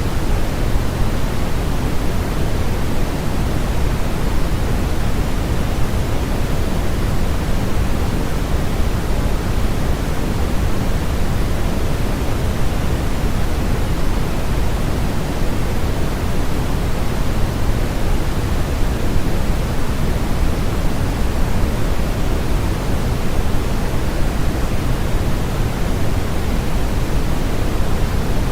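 Steady generated noise for sleep masking, a constant even hiss weighted toward the low end with no tones or changes.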